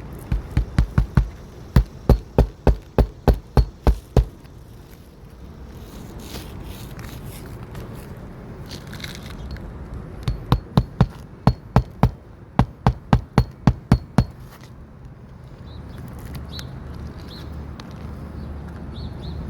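Hammer driving roofing nails into an asphalt ridge cap shingle: two runs of quick, evenly spaced strikes, about four a second, one at the start and one about ten seconds in, each lasting about four seconds.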